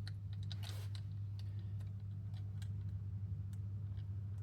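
Scattered light clicks and taps of small airsoft rifle parts being handled, over a steady low hum.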